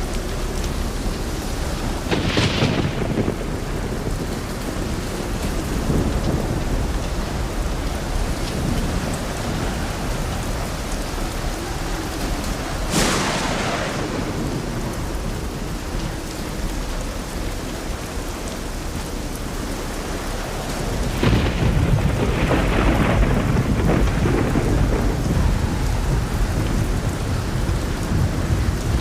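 Thunder over steady light rain: a crack about two seconds in, a sharp clap near the middle, and a longer rolling peal from about two-thirds through that is the loudest.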